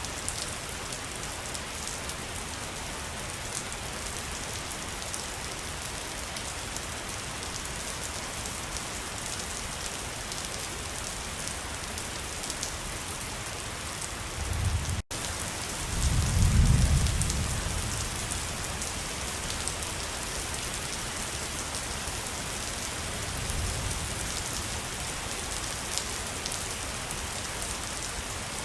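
Waterfall: a steady rush of falling water with fine splashing. About halfway through the sound drops out for an instant, and just after it a low rumble swells for a couple of seconds.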